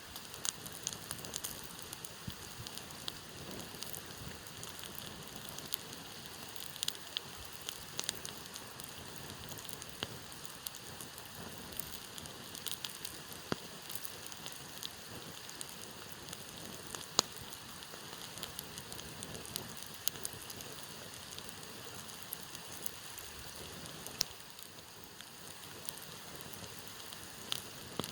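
Campfire burning with a steady hiss and frequent sharp pops and crackles scattered irregularly; one loud pop comes a little past the middle.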